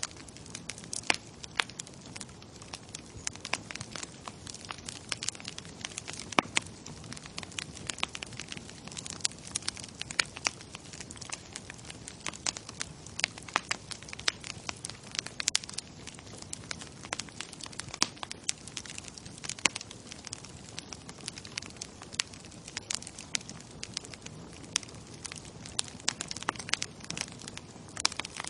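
Bonfire crackling and popping: frequent irregular sharp snaps over a steady low rush of burning.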